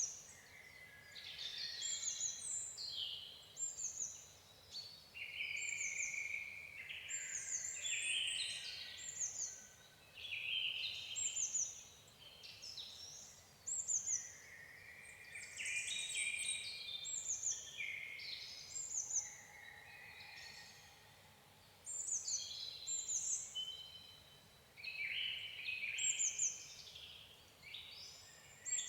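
Songbirds chirping and singing: many quick, high notes that sweep downward, coming in overlapping bursts with short pauses between, at a low level.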